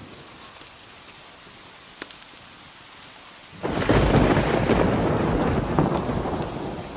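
Steady rain with scattered drop ticks; about three and a half seconds in, a sudden loud thunderclap breaks out and rumbles on through the rest.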